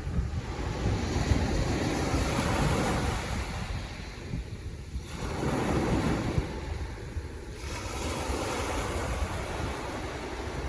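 Ocean surf: waves breaking and washing in, swelling about a second in and again around five seconds in.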